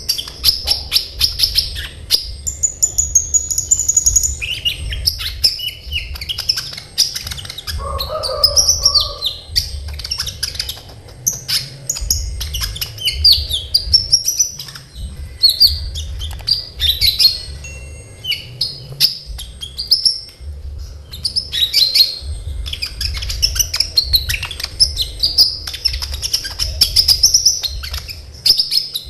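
A kolibri ninja, the purple-throated sunbird, singing a fast, dense song of high, sharp chirps and trills with short breaks. A lower call comes briefly about eight seconds in, over a faint low hum.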